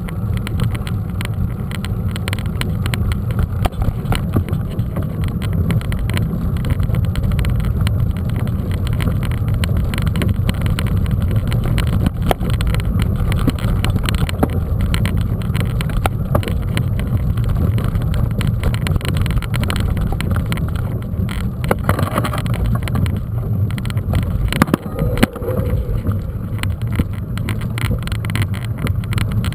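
Wind rumbling on a mountain bike's on-board camera microphone while riding, with tyre noise over a dirt trail. Scattered knocks and rattles from the bike come through over the steady low rumble.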